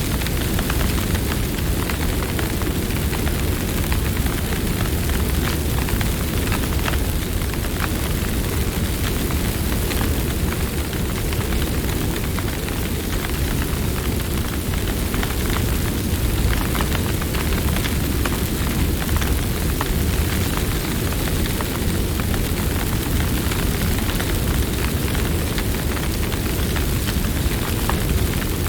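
Campfire crackling: a steady low rumble of burning wood with many small snaps and pops scattered through it.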